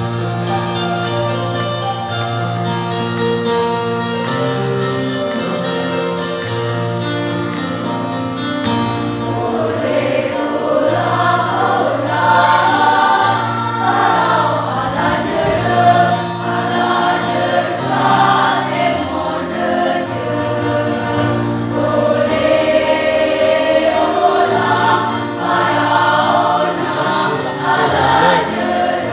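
School choir singing a piece; the voices grow louder and fuller about ten seconds in.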